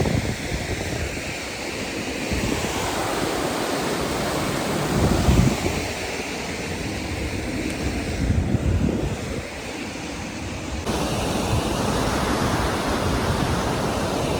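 Steady rush of outdoor water noise, with wind gusting on the microphone in low rumbling buffets several times. The sound changes abruptly near the 11-second mark, as at a cut.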